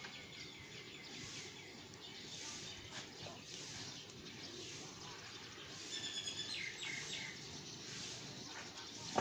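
Small birds chirping over a steady outdoor background hiss, with a louder run of high calls about six seconds in. A single sharp click comes at the very end.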